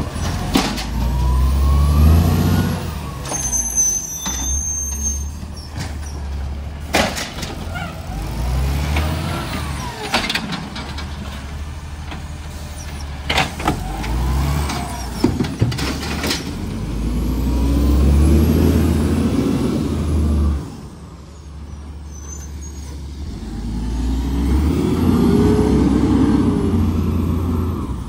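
Diesel garbage truck at work: the engine runs steadily and revs up twice for several seconds. Several sharp clanks and high whining tones that rise and fall come through over it.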